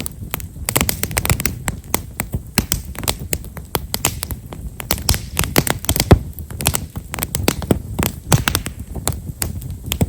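Campfire of Japanese stewartia (himeshara) firewood crackling: many small, fine pops in quick irregular succession over a low rumble of flame, with a few louder pops, the loudest about six seconds in.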